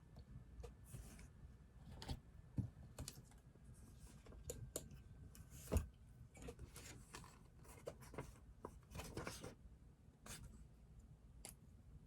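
Quiet desk sounds of someone studying: irregular keyboard clicks and taps mixed with short scratching strokes of writing, over a low steady room hum.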